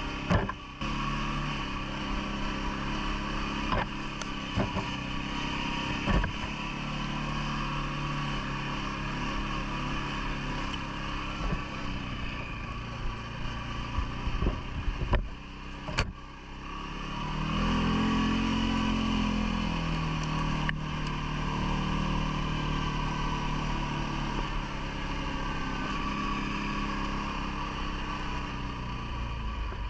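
CFMoto ATV engine running as it is ridden, its pitch rising just past halfway as it speeds up. Several sharp knocks come in the first half.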